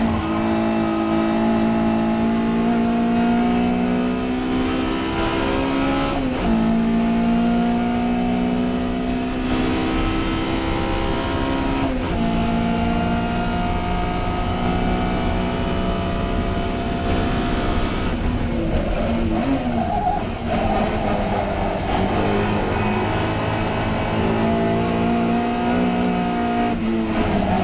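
Touring race car engine at racing speed, revs climbing steadily through the gears with upshifts about six and twelve seconds in. Around two-thirds of the way through the revs fall and break up while braking and downshifting, then climb again as the car accelerates.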